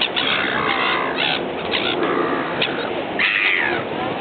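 Birds calling in many short, sharp calls, with one longer falling call about three seconds in, over the steady rumble of a sightseeing boat.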